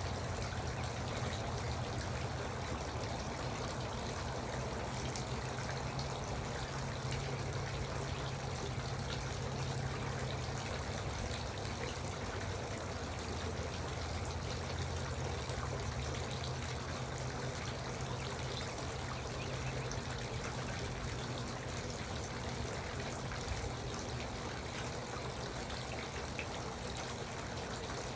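Garden water fountain trickling and splashing steadily, water falling continuously into a pool.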